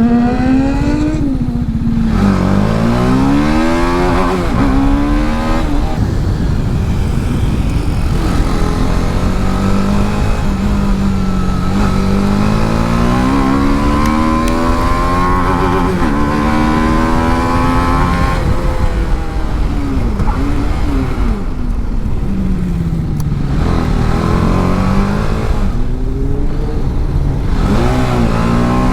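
TVS Apache RR 310's single-cylinder engine at racing revs, its pitch climbing through the gears and falling away under braking and downshifts several times over.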